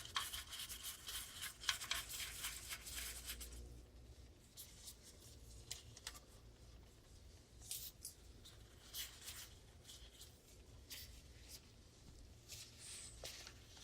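Faint scraping and small metallic clicks as a drain plug with its washer is threaded back into the oil pan by hand, busy for the first few seconds and then only occasional ticks.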